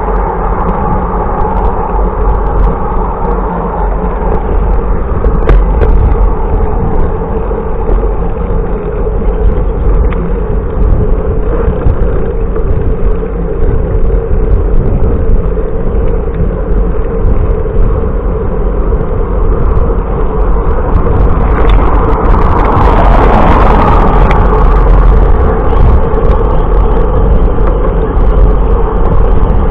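Loud, steady wind rush and road rumble on a camera microphone riding along on a bicycle, with a louder, hissier surge a little over two-thirds of the way through.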